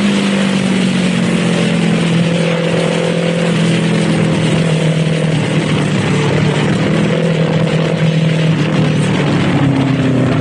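Kawasaki Z400 parallel-twin engine running at a steady cruise, its note sinking slowly as the revs ease off. A heavy rush of wind and road noise sits over it.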